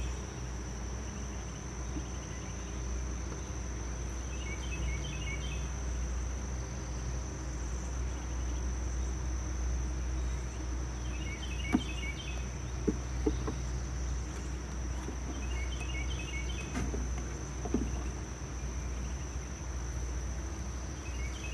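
Steady high-pitched insect trill with a low steady hum beneath it. A short burst of chirps recurs about every five seconds. A few light clicks come in the middle and again later, from hive frames and equipment being handled.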